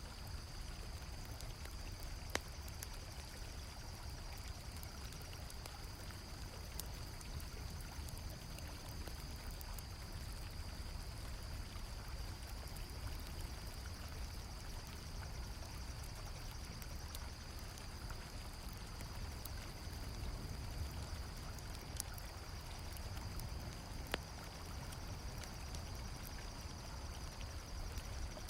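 River water flowing steadily, with a continuous high chorus of crickets and a few sharp pops of a crackling campfire.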